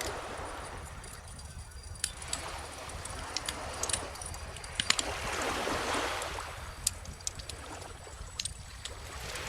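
Bonfire crackling with scattered sharp pops, over calm ocean waves washing in slowly, one swell rising and falling about halfway through.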